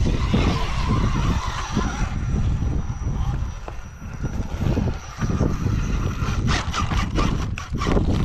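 Rock crawler buggy engine running on the course, heard under wind buffeting the microphone, with a few sharp knocks about six to seven seconds in.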